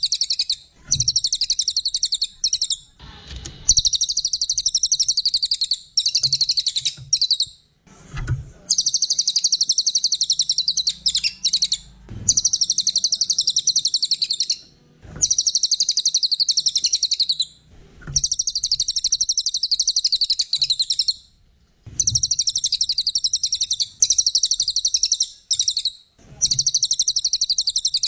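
A small songbird repeating bouts of rapid, high-pitched chattering trills, each lasting two to three seconds with short pauses between them, as in a looped bird-song training recording.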